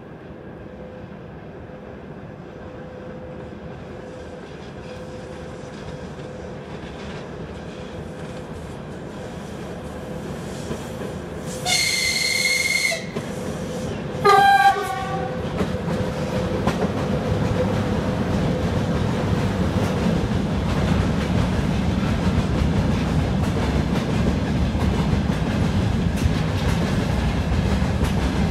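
VL80S electric locomotive hauling a freight train, its rumble growing as it approaches. It sounds its horn twice: a high blast about 12 seconds in, lasting just over a second, then a shorter, lower and louder blast about two seconds later. The freight wagons then roll past with a steady low rumble and wheel clatter.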